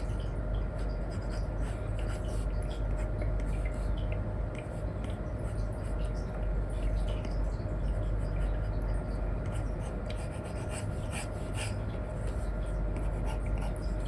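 Apple Pencil 2 with an Elecom nib scratching and tapping in short, irregular strokes on a paper-like film over an iPad screen, over a steady low hum.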